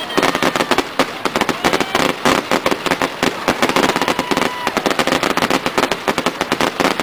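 Fireworks: a dense, unbroken barrage of bangs and crackles, many reports a second, from rising comets and glittering star bursts.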